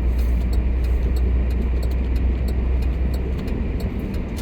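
Inside a car driving slowly along snow-covered streets: a steady low rumble of engine and road, which eases off about three and a half seconds in, with faint small clicks over it.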